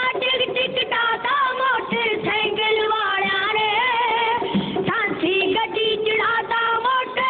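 A high voice singing a Punjabi dhadi-style song over instrumental backing, its notes wavering in a wide vibrato and breaking into short phrases.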